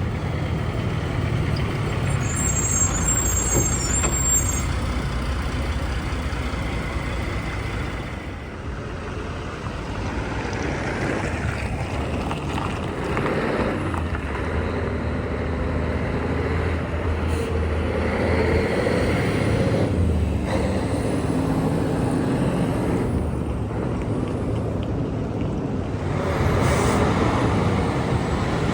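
Heavy trucks driving past on a road, their diesel engines running steadily with the sound swelling and easing as they go by.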